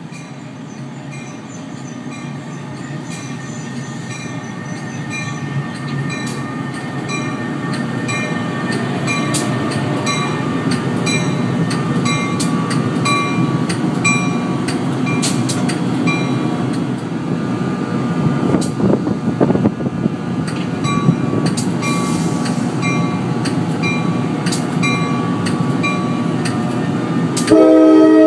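NJ Transit ALP-46 electric locomotive hauling multilevel commuter cars into the station: the rumble of the train grows as it approaches and passes close by, with a bell ringing about every two-thirds of a second. Near the end the locomotive's horn gives one loud blast.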